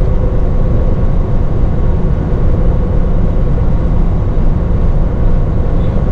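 Steady low rumble of a moving truck, engine and road noise running evenly with no change in pitch.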